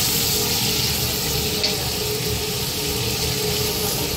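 Raw chicken pieces sizzling in hot oil with ginger and onion in a pot, a steady frying hiss as they are stirred with a wooden spatula, with one small tick about a second and a half in. This is the sauté stage of chicken tinola, before the broth goes in.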